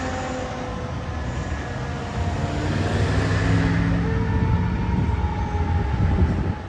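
Fire apparatus driving past on an emergency response: a heavy truck engine rumbles and grows louder about two seconds in, with steady droning tones over it.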